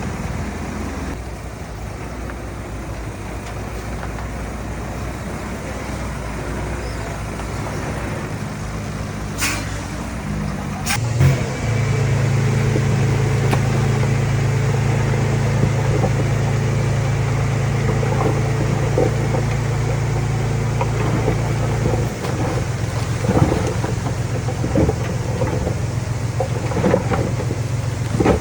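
Heavy diesel earthmoving machinery running steadily, its engine note picking up to a louder, higher steady pitch about eleven seconds in. A couple of sharp clicks come just before that, and irregular knocks and clanks come in the last third.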